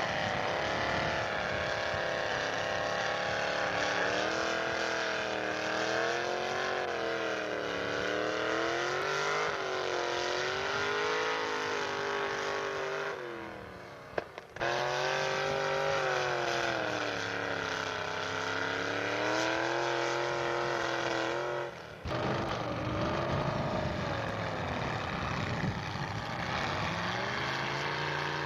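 Pulling truck's engine working under load, its revs rising and falling in waves. The sound breaks off abruptly about halfway through and again near three-quarters of the way, each time picking up straight away with engine sound again.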